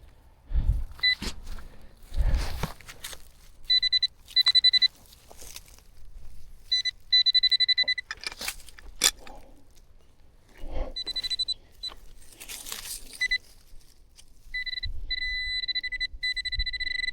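Dull thumps of digging into soil, with sharp clicks, and repeated short electronic beeps from Nokta Macro metal-detecting gear at one high pitch. Near the end the beeps run into a near-continuous pulsing tone as the gear closes in on a buried metal target.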